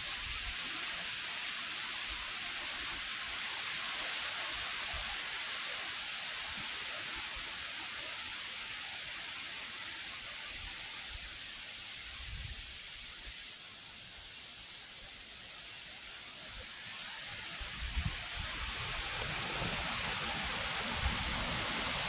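Strong wind rushing through the tree tops, a steady rustling hiss of tossing leaves and branches that eases a little past the middle and builds again, with a few low thumps.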